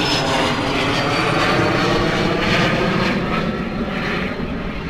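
Aircraft engine running, a steady engine noise with a thin high whine that slowly falls in pitch over the first couple of seconds.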